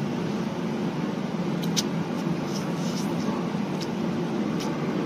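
Steady low background hum, with a few faint short clicks of someone eating noodles.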